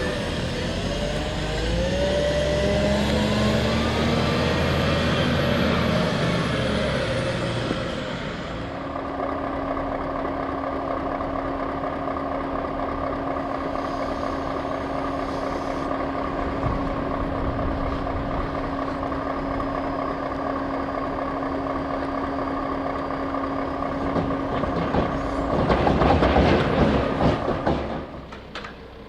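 Heavy diesel vehicle engines at work. For the first eight seconds the revs rise and fall, then the engines run steadily with a steady whine. A louder rush of noise comes near the end before the sound drops away.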